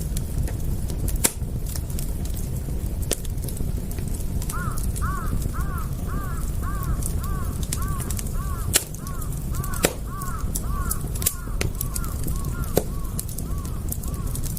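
Fire crackling with sharp pops over a low steady rumble. About four seconds in, a bird starts calling in a fast series of short rising-and-falling notes, about two or three a second.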